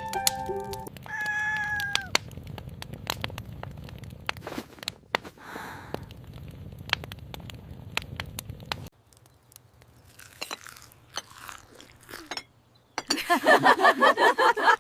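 Chewing and crunching of food being eaten, a rapid run of sharp clicks and crunches. A louder, busier burst of sound comes in near the end.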